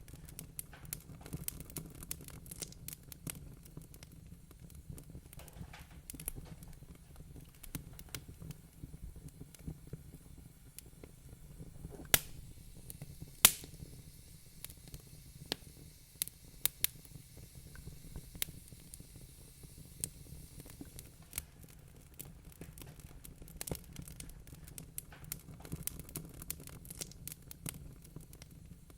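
Wood fire crackling in a fireplace: a steady scatter of small snaps and pops over a low rumble, with two sharp, louder pops about twelve and thirteen seconds in.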